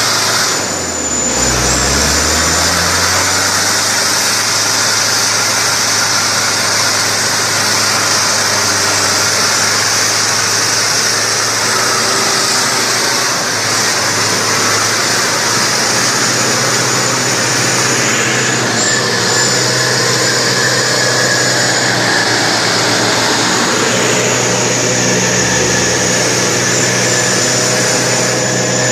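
Mitsubishi Canter 4x4 truck's diesel engine running steadily under load, its pitch dipping and climbing again about a second in.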